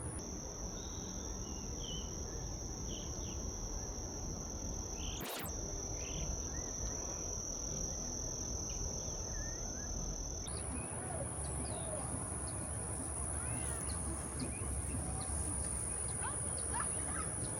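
Insects trilling steadily on one high pitch, with scattered faint bird chirps over a low background hiss. The trill drops to a lower pitch just after the start and jumps back up about ten seconds in, and there is a single sharp click about five seconds in.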